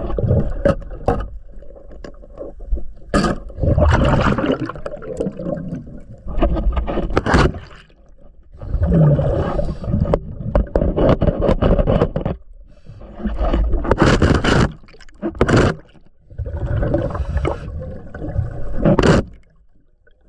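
Diver's breathing regulator underwater: bubbling, rumbling bursts of exhaled air every few seconds, with quieter gaps between breaths.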